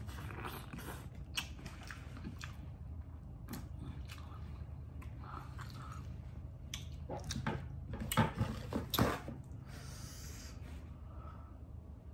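Close-miked chewing and wet lip smacking of a mouthful of food, with many small mouth clicks. A few louder sudden noises come about eight to nine seconds in.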